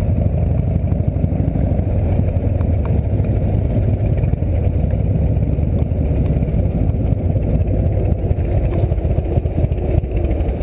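Harley-Davidson V-twin engine of a chopper trike running at low road speed, a steady loud low rumble.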